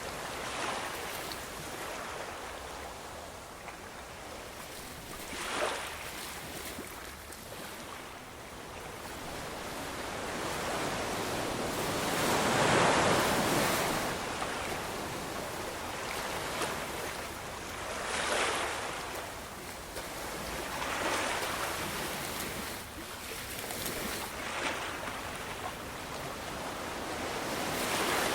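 Sea waves surging in and washing back, swelling and fading in turn. The biggest surge comes about halfway through, with shorter ones scattered around it.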